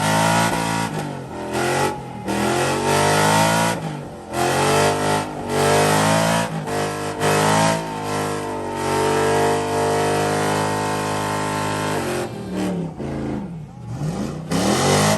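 Pickup truck engine revving hard during a burnout, over and over: the pitch climbs and drops in repeated bursts, with short lifts off the throttle between them, under a constant hiss. Near the end it drops back and revs more unevenly.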